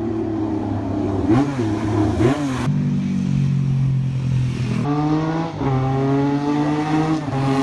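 Rally car engine revving: two quick blips of the throttle, then the engine holds steady for a couple of seconds before the revs climb again over the last few seconds.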